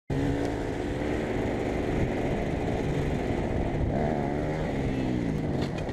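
Enduro motorcycle engine running under throttle over a steady rushing noise. The revs climb briefly about four seconds in, then fall away near the end.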